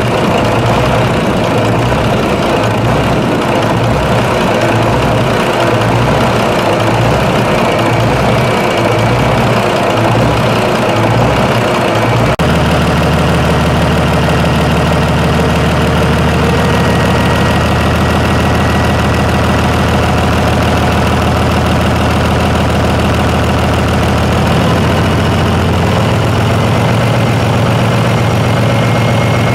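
Large engine running at a slow idle with an even, pulsing beat; about twelve seconds in the sound changes abruptly to a steadier engine run.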